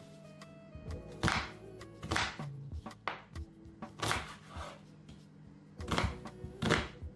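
A knife slicing through an onion on a cutting board: about five separate cuts at uneven intervals, over background music.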